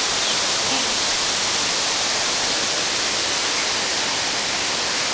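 Waterfall pouring into a rocky pool: a steady, unbroken rush of water.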